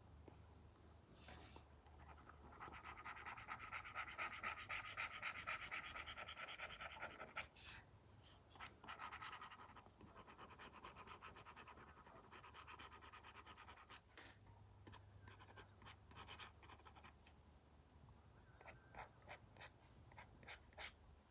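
Apple Pencil Pro tip scratching over a paper-like screen film on an iPad as brush strokes are drawn: a long run of quick back-and-forth scribbling strokes about three seconds in, then shorter, lighter strokes and small taps.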